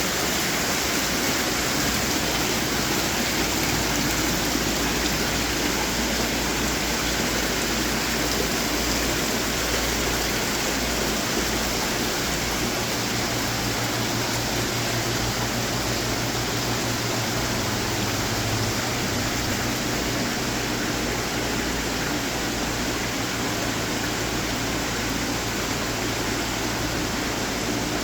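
Display water fountains running, a steady rush of falling and splashing water.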